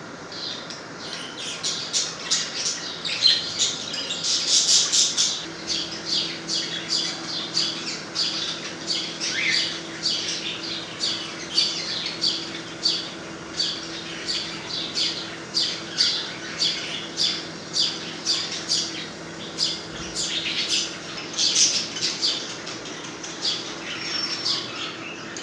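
A flock of Australian parrots calling without pause, a dense run of short squawks and chirps about two a second.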